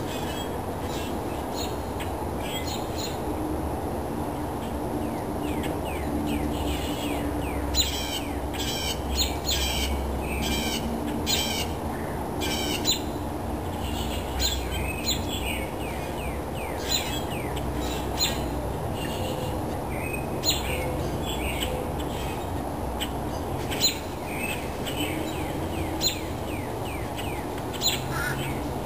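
Songbirds calling at dawn: many short, falling chirps, with sharp louder calls repeating every second or two from about a quarter of the way in, over a steady low background rumble.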